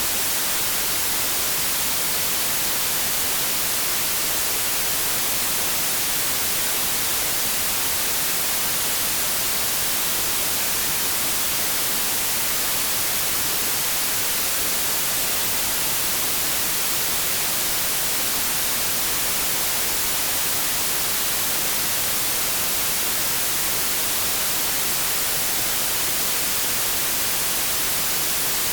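Continuous white noise: a steady, unchanging hiss that is strongest in the high frequencies.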